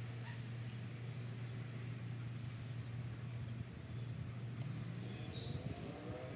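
Outdoor ambience: short, high chirps repeat every half second or so over a steady low hum. Near the end a few rising tones begin.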